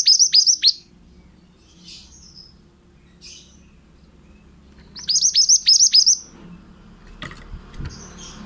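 Male mantenan bird singing: two quick bursts of about six sharp, high, downward-slurred chirps, one at the start and one about five seconds in, with a few faint calls between.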